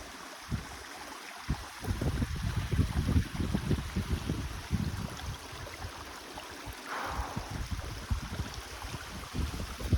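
Waterfall rushing steadily, with heavy low gusts of wind buffeting the microphone from about two seconds in until about six.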